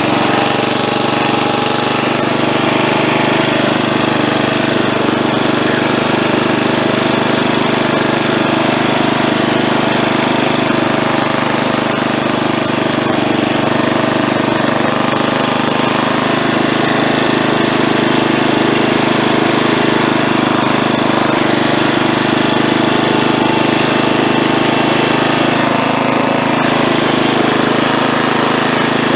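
Small single-engine garden tractor, a Wheel Horse A-800 Ranger, running steadily at a constant speed while driven along.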